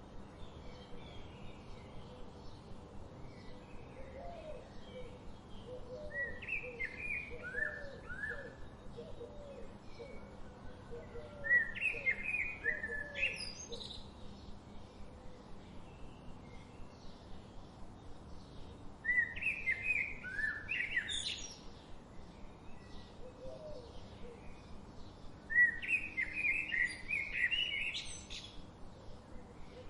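Wild songbirds singing: one bird gives a loud, rapid song phrase of two to three seconds about every six or seven seconds. Between and under the phrases there is a fast, steady ticking of faint high chirps and, at times, a low repeated call from another bird.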